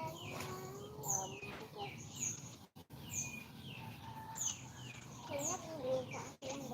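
Small caged birds chirping: short, sharply falling high chirps repeated about once a second, with faint voices underneath.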